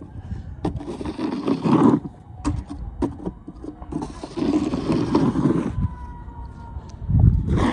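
Snow shovel scraping and pushing snow in three strokes, each a second or two long, with the longest in the middle and the last starting near the end. Light knocks from the shovel come between strokes.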